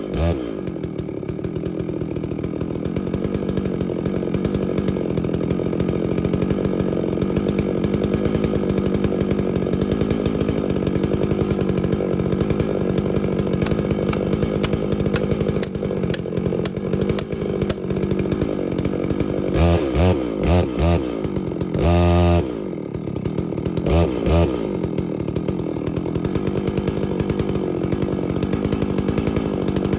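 Holzfforma G660 two-stroke chainsaw running steadily under load while cutting into a tree. About 20 seconds in it revs up in a few short blips and one longer rev, then settles back into the cut.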